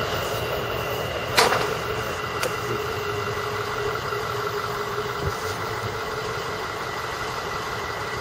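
Steady rumble of a freight-style train, the CSX-hauled circus train, rolling away down the track, with one sharp click about a second and a half in.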